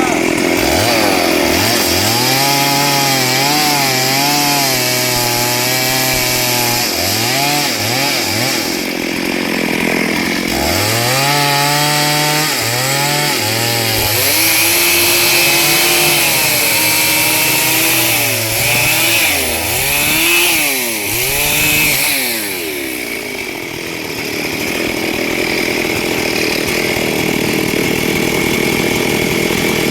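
Two-stroke chainsaw cutting through wood. The engine note rises and drops again and again as the chain bites in and eases off, then settles into a steadier cutting sound for the last several seconds.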